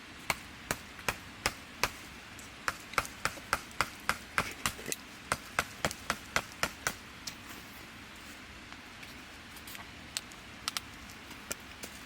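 Chopping on wood: a run of sharp, evenly spaced chops, about two and a half a second, for some seven seconds, then a few scattered taps near the end.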